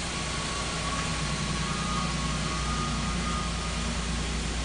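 2005 Chevrolet Equinox's 3.4-litre V6 idling steadily.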